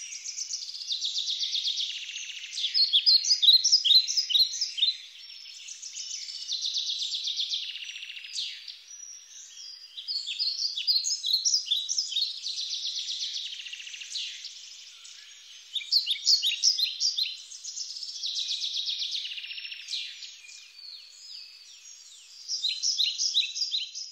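Birds singing: loud phrases of rapid high chirps and trills every few seconds, with quieter chirping in between.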